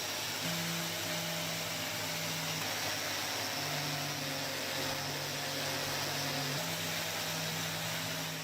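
A small power tool running steadily with a whirring hiss, its low hum shifting a little in pitch every second or two.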